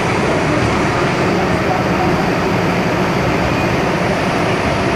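Interior running noise of an MTR M-Train electric multiple unit underway: a steady, loud rumble of wheels on rail and traction equipment.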